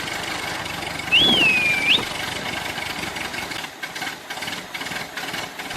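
Engine running steadily at idle. About a second in there is a short whistle-like call that dips and then rises.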